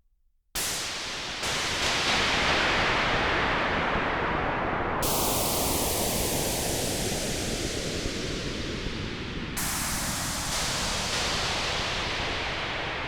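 Roland JX-8P analog synthesizer playing a noise effects patch: a loud hiss starting sharply about half a second in and re-struck several times, with a resonant whistle inside the hiss gliding slowly down in pitch.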